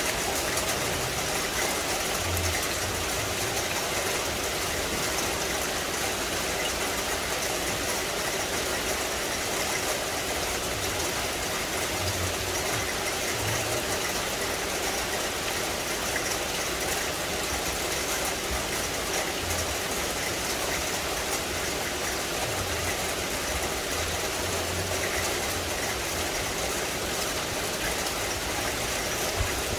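Steady rain falling on forest foliage, an even hiss with no let-up, with a few brief low rumbles here and there.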